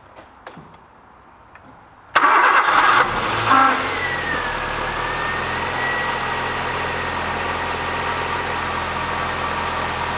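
Nissan Micra 1.2-litre petrol engine started with the starter: it cranks for about a second, about two seconds in, then catches and settles into a steady idle. It starts now that the faulty camshaft sensor behind its crank-no-start fault (code P0340) has been replaced.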